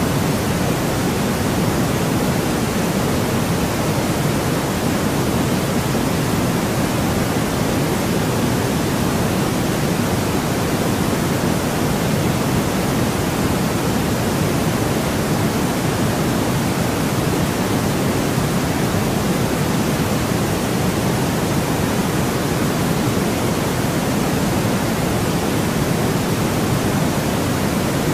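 Steady, unchanging white noise for sleep, an even hiss with no events, fuller in the low end than in the highs.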